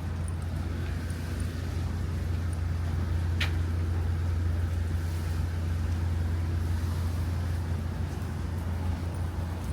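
A steady low engine rumble, like a vehicle idling close by. There is one short high chirp or squeak about three and a half seconds in.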